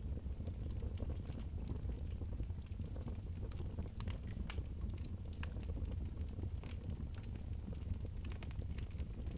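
Fireplace fire crackling, with sharp irregular pops and snaps over a steady low rumble.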